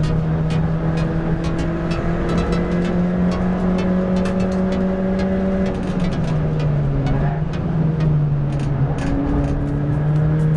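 Ford Fiesta race car's engine heard from inside the cabin, held at high revs and climbing slowly, dipping about six seconds in as the driver lifts or changes gear, then building again. Sharp clicks and rattles come through over it.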